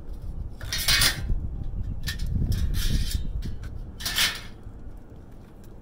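Scrap metal and wire being handled: scattered clinks, with two louder scraping rustles about a second in and at about four seconds.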